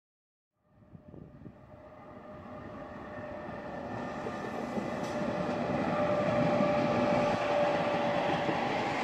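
Regional passenger train passing on the track, its rolling noise growing louder as it approaches and then holding steady, with a steady whine running through it. It begins just under a second in.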